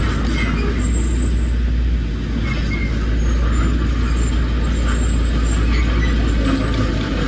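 Heavy diesel earthmoving machinery running steadily, a continuous low rumble with an even level.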